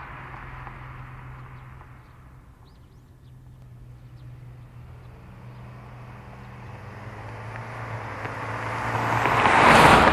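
Subaru WRX S4's turbocharged flat-four, fitted with an STI exhaust kit, approaching at a steady cruise. The low exhaust note grows steadily louder and peaks as the car passes close by near the end.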